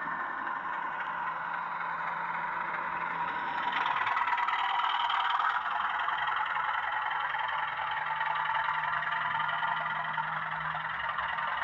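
A 00 gauge model locomotive running on the layout, giving a steady mechanical running sound with a held low tone. It swells about four seconds in and eases back a second or so later.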